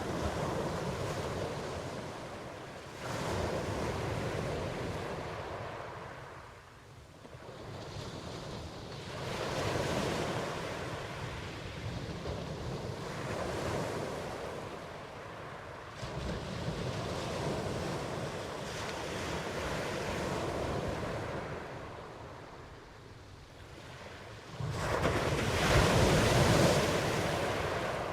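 Ocean waves surging and washing in, one swell after another every few seconds, with the loudest wave breaking near the end.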